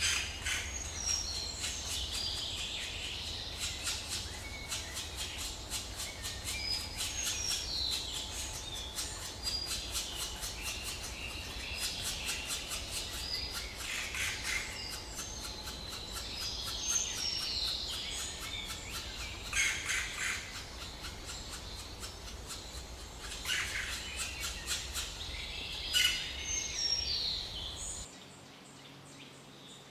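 Birds chirping and calling: many short high chirps throughout, with louder bursts of calls a few times, then an abrupt drop to a quieter background near the end.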